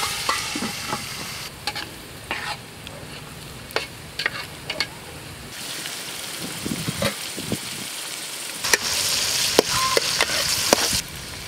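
Onions, tomatoes and capsicum sizzling in oil in a large aluminium pot, with sharp metallic clinks and scrapes as the pot's lid is handled and a metal spatula stirs the vegetables. The sizzling grows louder about halfway through and is loudest near the end.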